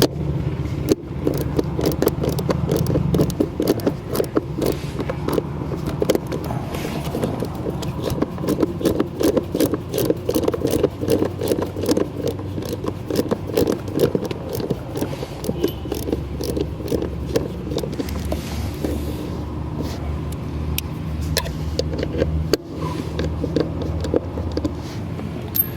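Ratchet wrench clicking in quick runs as the 7mm screws holding the blower motor are backed out, with scraping from the tool, over a steady low hum.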